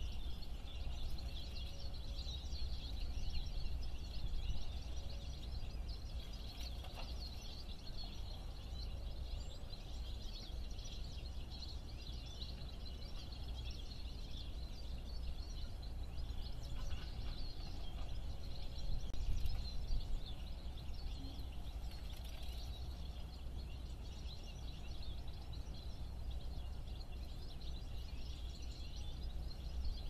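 Background chorus of small garden birds chirping and twittering continuously, over a steady low rumble.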